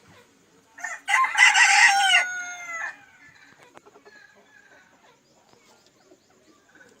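A single loud bird call lasting about two seconds, with a short lead-in note and a pitch that falls away at the end.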